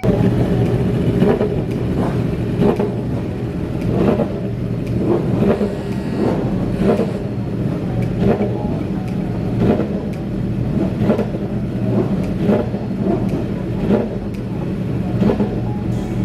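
Motorcycle engine noise running steadily, with a low hum and rushes that swell about once a second.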